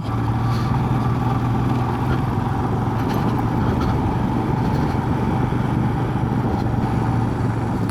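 Motorcycle engine running at a steady speed with a constant low hum over a rushing noise of wind and road.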